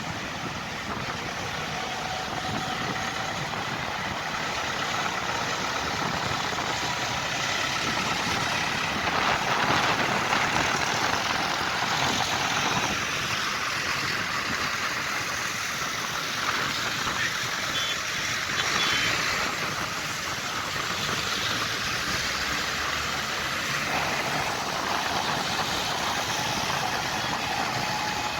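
Tractor engines running steadily, a continuous noisy engine sound with no single event standing out.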